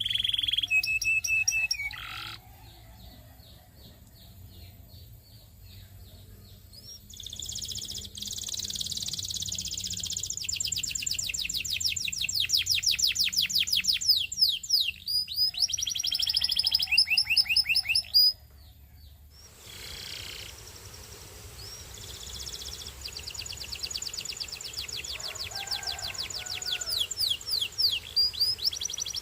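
Belgian singing canary singing long, rapid trills of repeated high notes, with the song broken by two quieter pauses and picking up again each time.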